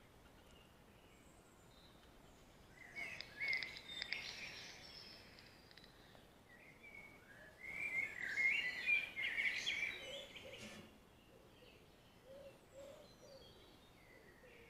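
Birds singing in two spells of chirping song, one about three seconds in and a longer one about eight seconds in, over a faint outdoor background.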